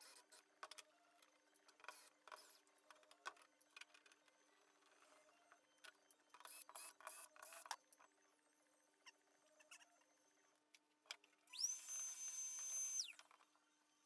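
Quiet workshop handling: scattered light clicks and knocks of parts and tools being moved. Near the end comes a burst of about a second and a half of hissing, with a high whine that rises, holds and falls away.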